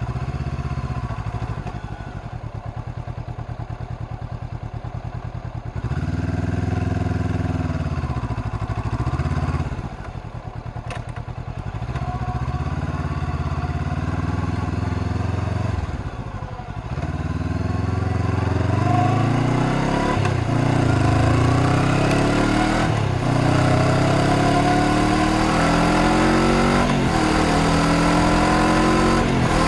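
Honda CBR500R's 471 cc parallel-twin engine under way, its pitch rising and falling in the first half. From about two-thirds of the way in it pulls hard, climbing in pitch several times with a drop at each upshift.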